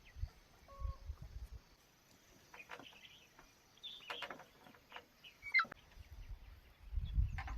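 Scattered short bird calls, with low rumbles about a second in and again near the end.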